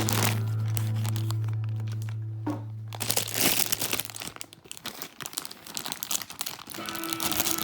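Plastic crinkling and small clicks from Lego parts being handled, over background music. The music's held low note fades out about four seconds in, leaving mostly the crinkling, and the music comes back near the end.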